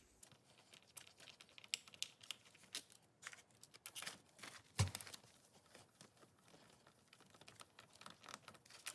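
Scattered light clicks and taps of hand tools on the small bolts of a motorcycle's oil filter housing as they are undone and taken out, with one dull knock about five seconds in.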